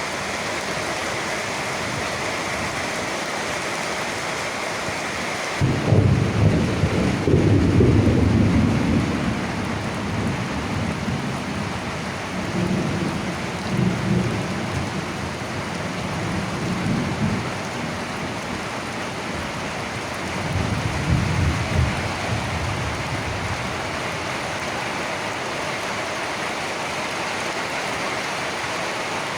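Steady rain falling throughout. About six seconds in, a sudden crack of thunder breaks into a deep rumble that lasts several seconds. It rolls on in fainter waves and dies away about two-thirds of the way through.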